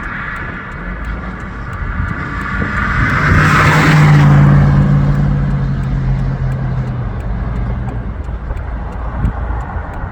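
A car drives past close by. Its engine hum and tyre noise build to a peak about four seconds in, then fade away.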